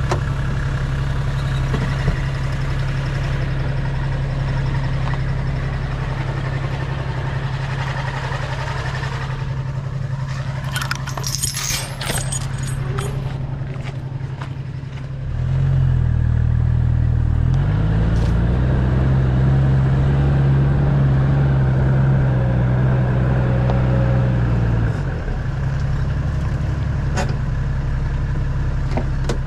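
Four-wheel drive's engine running steadily at low revs, with clinking and rattling for a few seconds around the middle. Just past halfway the engine gets louder and its note climbs as it pulls under load, holds for several seconds, then drops back to a steady run.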